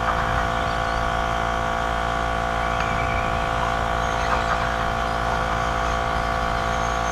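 A field of radio-controlled stadium trucks racing, heard as a steady mechanical buzz under a constant hum.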